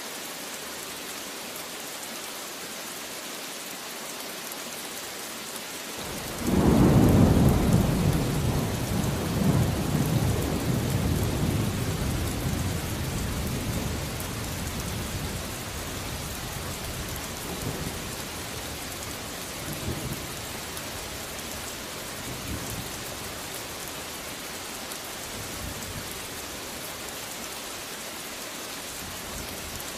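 Steady rain falling, with a clap of thunder breaking in about six seconds in and rolling away in low rumbles over the next ten seconds or so.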